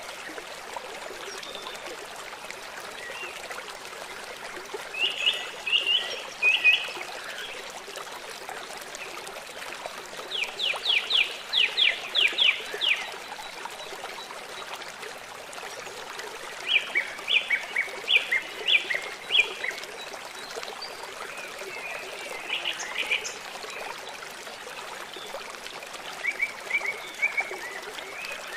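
Steady rush of running water, with a songbird singing a short phrase of quick, bright notes five times, about every five or six seconds.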